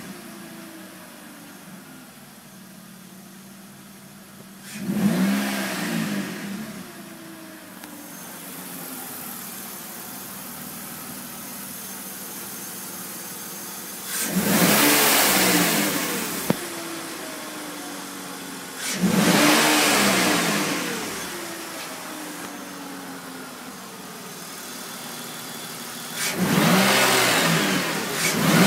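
BMW E46 320Ci straight-six engine idling and blipped four times, each rev rise sinking back to idle over a few seconds. As the revs swing down, the owner hears a rattling, clattering noise that is absent at start-up, and he cannot say what causes it.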